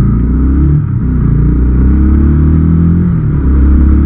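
Motorcycle riding at road speed, heard through a helmet-mounted camera: a loud low rumble of wind on the microphone, with the engine note rising and falling beneath it.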